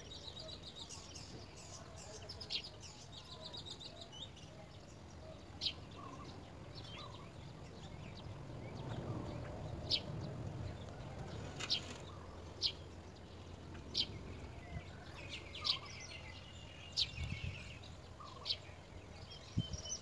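Small birds chirping: short, sharp, high chirps scattered through, with quick trilled runs near the start and again about three-quarters through, over steady outdoor background noise.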